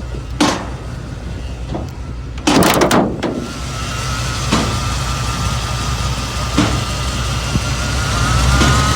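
A 1991 Ford F-250's 460 V8 idling with a steady low rumble, an engine its seller says skips on one cylinder. Several metal clunks sound over it, the loudest a quick cluster about two and a half seconds in, and a thin whine comes in near the end.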